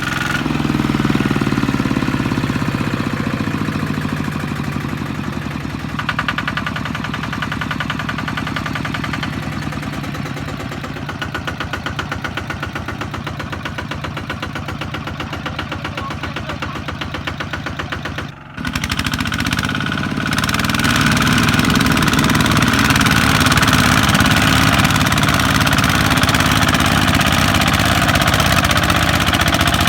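Kubota ZT155 single-cylinder diesel engine running steadily with its knocking diesel beat. It drops out briefly about eighteen seconds in, then runs on a little louder.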